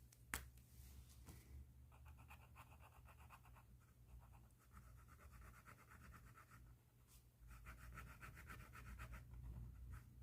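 Pen tip scratching across paper in quick, even back-and-forth strokes, in stretches with short breaks, faint throughout. A sharp click sounds about half a second in.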